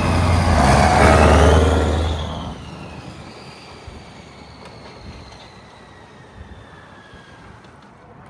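1977 Scania LBS 140's 14-litre V8 diesel running loud with a whine that rises and falls. About two and a half seconds in, the engine note drops away sharply, leaving a faint whine that falls slowly in pitch as it winds down.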